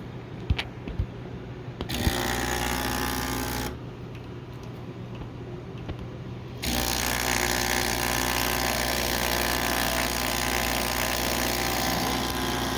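A few light clicks, then a DeLonghi EC685M espresso machine's vibratory pump buzzing steadily for about two seconds, stopping, and starting again about six and a half seconds in. It is a test run pumping water through a newly replaced connector that had been cracked and leaking.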